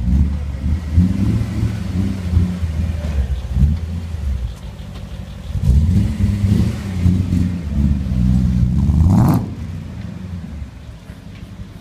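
BMW M5 engine running and revving in two loud spells, dropping back briefly between them, then settling to a quieter note about nine seconds in.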